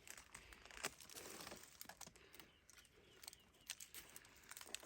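Near silence with faint, scattered clicks and light rustling of dry leaves and twigs being handled.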